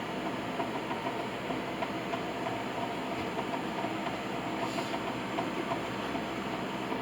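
Steady mechanical running noise, like a machine or fan, with faint scattered ticks.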